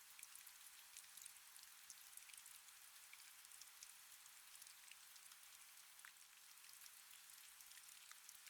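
Faint, steady rain: a soft hiss with many small drops ticking.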